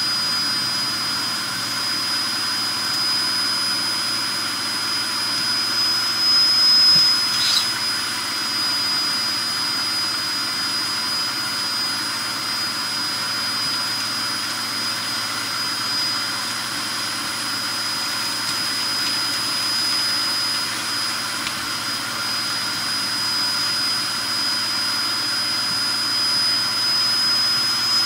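Hoover Performer Pet HPT16 upright vacuum cleaner running steadily with a high-pitched motor whine while sucking up fireplace ash. A brief louder burst comes about seven seconds in.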